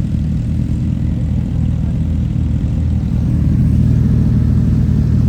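Motorcycle engine running steadily at low revs, a little louder in the second half.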